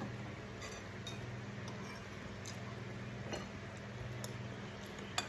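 Scattered light clicks and clinks of cutlery against dishes during a meal, the sharpest one near the end, over a steady low hum.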